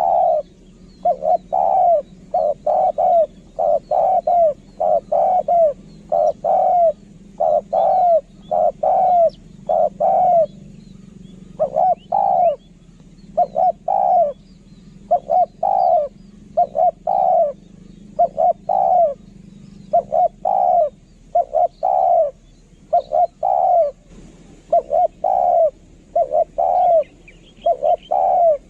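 Spotted dove cooing over and over: short, rolling coos delivered in quick runs of two to four with brief pauses between.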